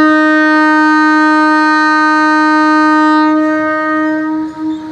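Train horn sounding one long, loud, steady blast at a single pitch, breaking briefly and cutting off about half a second before the end.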